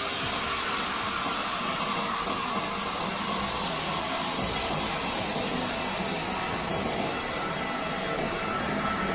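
Jet engines of an Airbus A320 airliner running, a steady hissing roar that holds an even level.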